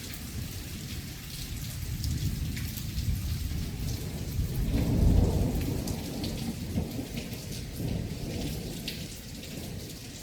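Heavy rain with a steady hiss and scattered drops hitting nearby, under a rolling thunder rumble that swells to its loudest about halfway through, then fades.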